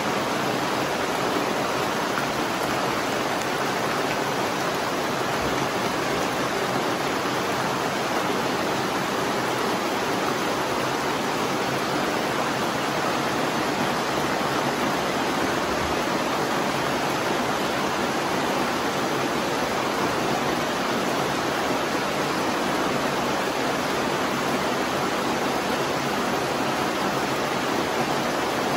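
Steady, heavy rainfall: an even, unbroken hiss with no separate drops standing out.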